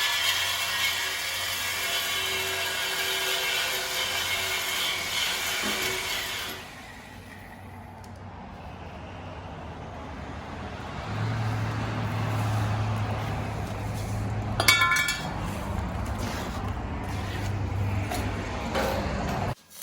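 A power tool whirring at work on the exhaust for about six seconds, stopping abruptly. A lower steady hum follows, with a short squeal about halfway through.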